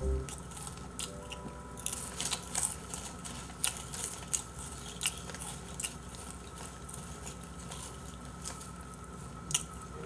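Someone chewing Kkokkalcorn corn cone snacks close to the microphone: crisp crunches at irregular intervals.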